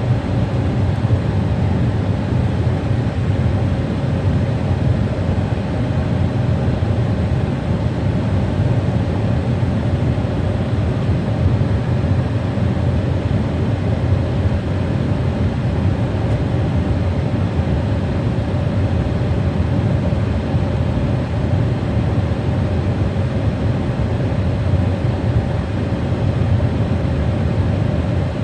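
Jet airliner engines running steadily: a continuous low rumble with a faint steady hum, holding an even level throughout.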